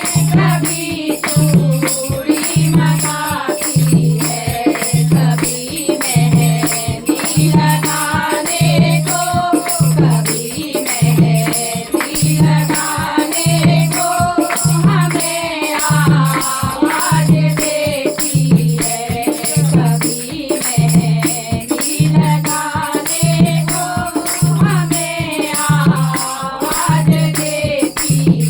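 Hindi devotional bhajan music: a melody line over a steady beat, with a low drum pulse about once a second and continuous jingling, rattling percussion.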